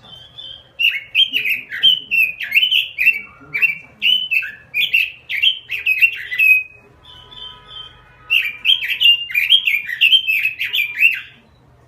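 Pekin robin (red-billed leiothrix) singing a rapid, continuous warbling song of quick slurred whistled notes in two bouts, with a short pause a little before the eight-second mark.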